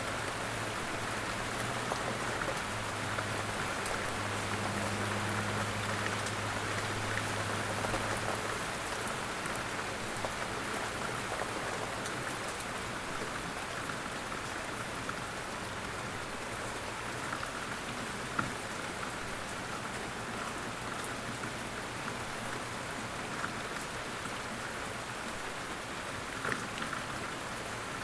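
Steady rain falling and pattering on surfaces, an even hiss with scattered individual drops ticking.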